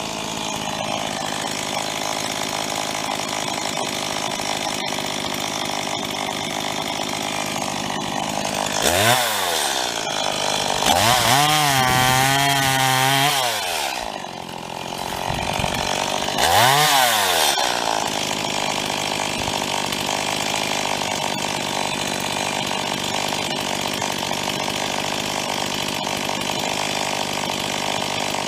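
STIHL MS 170 two-stroke chainsaw idling, revved up three times in the middle: a short blip, then a couple of seconds held at high speed with a wavering pitch, then another short blip, before settling back to idle.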